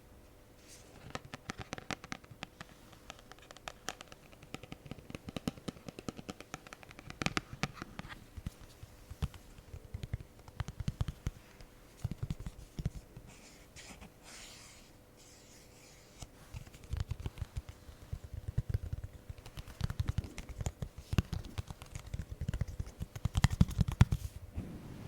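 Close-miked ASMR triggers: rapid clusters of tapping and scratching on handled objects, with duller low knocks in the second half.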